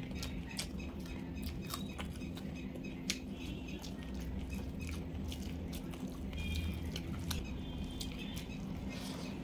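Close-miked eating: chewing, with many short wet mouth clicks and smacks, as rice and vegetables are eaten by hand. A steady low hum runs underneath.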